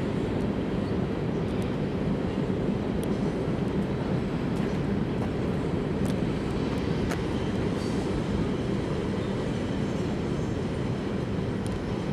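Coal hopper cars of a CSX freight train rolling past: a steady low rumble of wheels on rail, with a few faint clicks.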